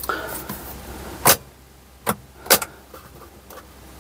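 A car's light switch clicked three times while the lights are tested, with no light coming on: a sign of a loose contact or a bad ground in the lighting circuit. A low steady hum sits underneath.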